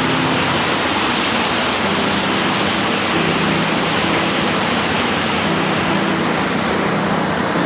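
Steady heavy rain falling, an even hiss with no breaks. A low hum lies underneath it and shifts in pitch a couple of times.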